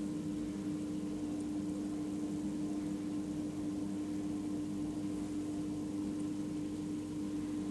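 Bosch Exxcel dishwasher running its pre-rinse cycle: a steady hum with one strong, even tone, the sound of the wash pump circulating water.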